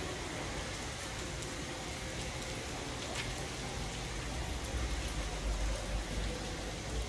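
Steady rain falling on a wet paved street and its puddles, with scattered sharp drop ticks. A low rumble comes in about five seconds in.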